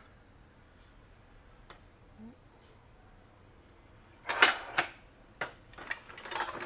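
Kitchen utensils and dishes clattering: mostly quiet for about four seconds, then a few sharp clinks and knocks, and a denser rattle of dishes starting near the end.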